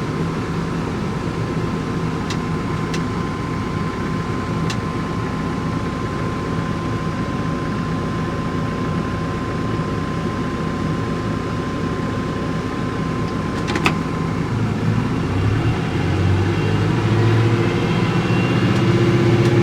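Farm vehicle engine running steadily at idle with a few light clicks, then its note climbs in steps over the last few seconds as it revs up to move off.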